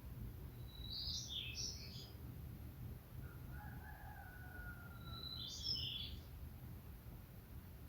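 Songbirds singing: a short high warbled phrase about a second in and another just before six seconds, with a longer, lower whistle from another bird in between. A steady low rumble runs underneath.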